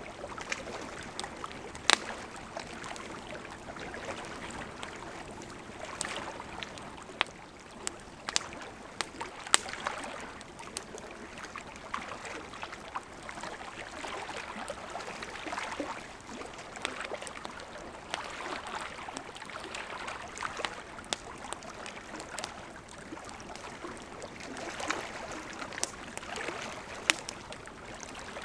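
Wood campfire burning: a steady hiss of flames with irregular crackles and sharp pops, two of them much louder, about two seconds in and near ten seconds.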